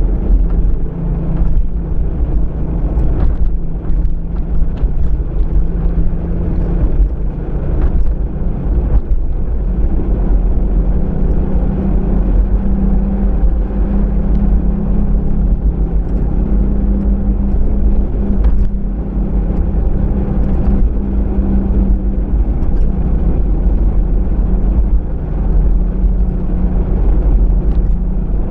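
Car driving, heard from inside the cabin: a steady low rumble of engine and tyre noise with a humming tone that shifts slightly in pitch, and a few faint clicks.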